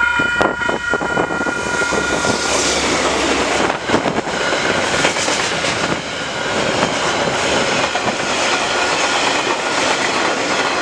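DL-class diesel-electric freight locomotive sounding its horn, a steady chord that stops about two and a half seconds in. Then the freight wagons roll past close by with a loud, steady rush and clatter of wheels on rail.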